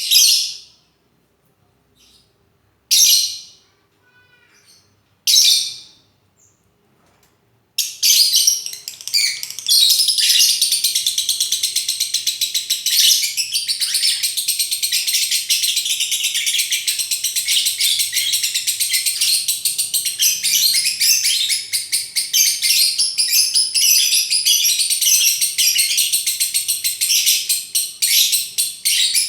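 Lovebird giving three short shrill calls in the first six seconds, then from about eight seconds in a rapid, high chattering song that runs on without a break. This is the long unbroken song that Indonesian lovebird keepers call 'konslet'.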